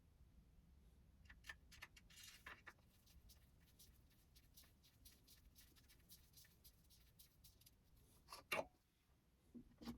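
Near silence with faint scattered clicks and taps, and one sharper click about eight and a half seconds in.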